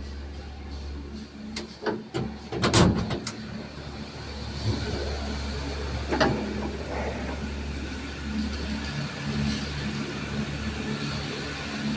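A steady low motor hum with a cluster of sharp knocks and clatter about two to three seconds in, and another knock about six seconds in.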